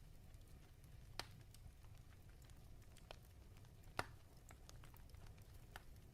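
Near silence over a low steady hum, broken by a few faint scattered clicks, the loudest two about a second in and about four seconds in.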